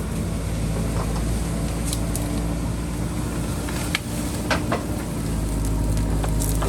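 JCB backhoe loader's diesel engine running steadily, with a few short knocks about four to five seconds in.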